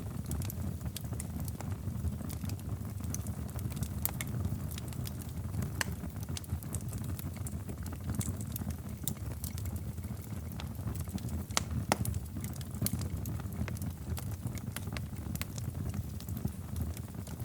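Wood fire in a fireplace crackling: irregular sharp pops and snaps over a steady low rumble, with a couple of louder pops about two-thirds of the way through.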